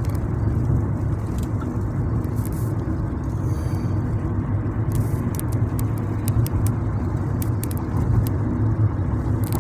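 Steady road and engine noise of a car driving, heard from inside the vehicle: a continuous low hum with rushing tyre noise.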